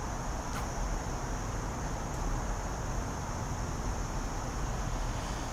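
Steady outdoor background: a low rumble under a constant high-pitched insect drone, with one faint click about half a second in.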